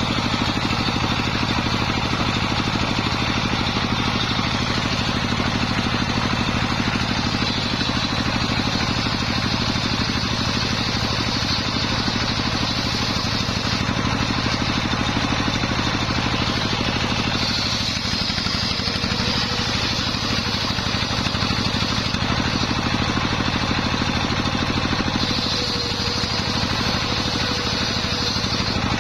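Homemade circular-saw sawmill running steadily, with a higher-pitched band that rises in several stretches, fitting the blade working through waru wood.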